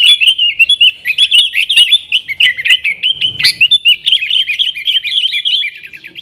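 Yellow-vented bulbul (trucukan) singing a fast, unbroken chattering song of short, quick chirps.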